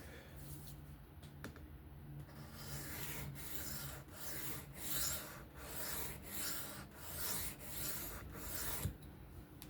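3V steel knife blade being stroked freehand across a sharpening stone: about ten scraping strokes in a steady back-and-forth rhythm that start a couple of seconds in and stop shortly before the end.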